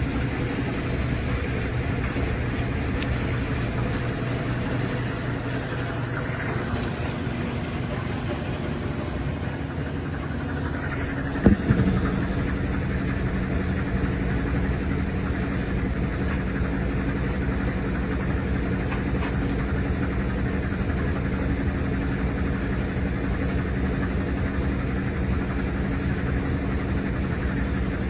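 RCA RPW302 portable washing machine on its final spin cycle: a steady motor and drum hum, with a single sharp knock about eleven seconds in, after which the hum is slightly stronger.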